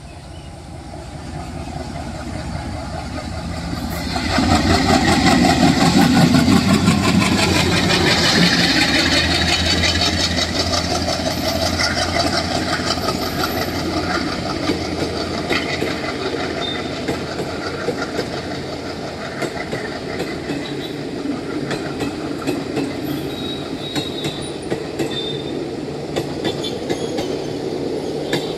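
ALCO diesel locomotive chugging, growing louder as it approaches and loudest as it passes about four seconds in. Passenger coaches follow, rolling past with a steady clickety-clack of wheels over rail joints.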